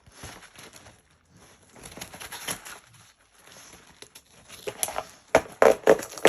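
A pit bull tearing and chewing a cardboard shipping box and its tape with its teeth, in ragged ripping and crunching bursts that get much louder and sharper near the end.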